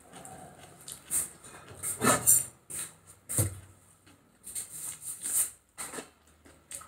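Close eating sounds: a person chewing food eaten by hand, with scattered short lip smacks and mouth clicks, the loudest about two and three and a half seconds in.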